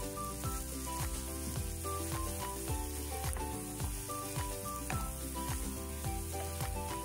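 Sliced red onion and minced garlic sizzling in melted margarine in a nonstick frying pan, stirred with a wooden spatula, under background music with a steady beat.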